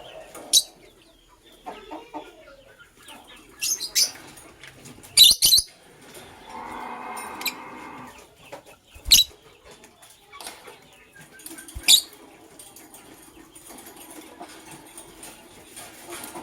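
Lovebirds giving short, sharp, shrill chirps every few seconds, about five in all, with wing flapping between them.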